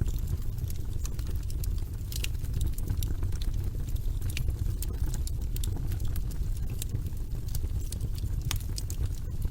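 Wood logs burning in a fireplace: a steady low rumble of the flames with irregular sharp crackles and pops, a few of them louder.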